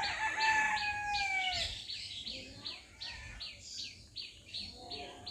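Birds chirping in a steady run of short high calls, about three a second, with a long drawn-out call falling in pitch during the first second and a half.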